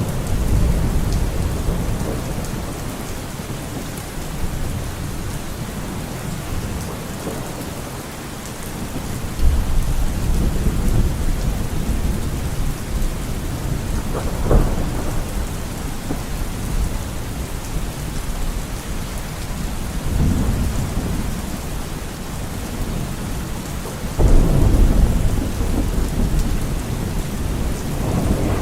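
Steady heavy rain with thunder. Low rumbles swell up about a third of the way in, a sharper crack comes near the middle, and another heavy rumble starts near the end.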